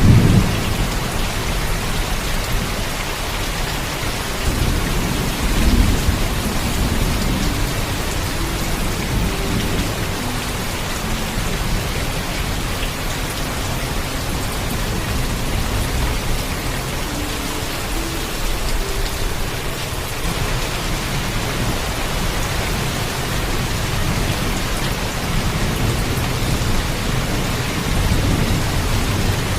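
Steady heavy rain with low thunder rumbling under it, swelling at the start, again about six seconds in, and once more near the end.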